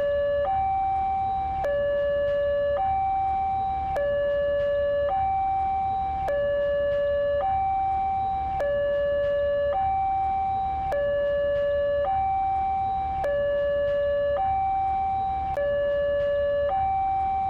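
Electronic two-tone hi-lo siren, switching between a higher and a lower note about every second, over a steady low hum.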